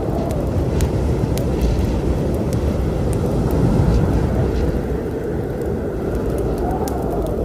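A steady, deep storm rumble of wind and rain, swelling a little about halfway through. Scattered sharp pops and crackles from a wood fire sit on top.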